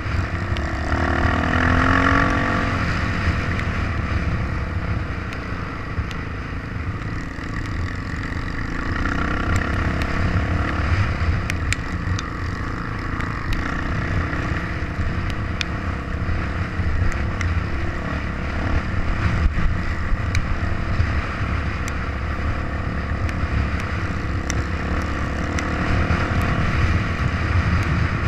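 Off-road trail motorcycle engine running under way, a steady rumble.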